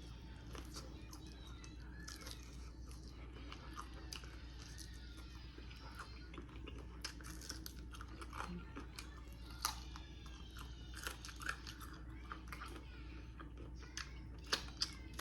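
Close-miked chewing and biting as fried chicken is picked clean off the bone, with soft crunches and wet mouth clicks. A few sharper clicks come about ten seconds in and near the end.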